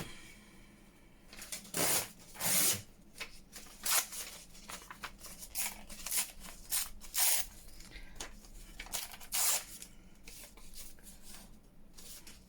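Paper being handled on a craft table: a string of short rustling, scraping strokes, the loudest about two seconds in.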